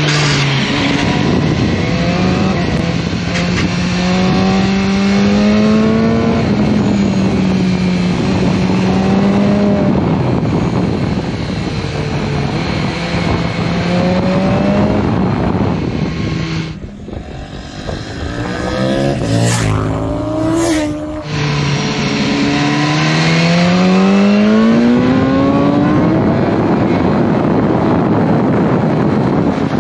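BMW S1000R's inline-four engine running hard on track. Its pitch rises under throttle and steps down at gear changes, goes quieter past the middle as the throttle closes for a corner, then climbs steadily again as it accelerates out.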